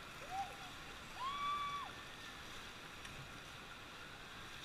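Steady rush of river water around a raft, with two distant shouted calls: a short one near the start and a longer held call about a second in.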